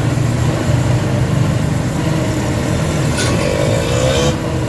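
Heavy diesel engine running steadily, with a rising whine about three seconds in.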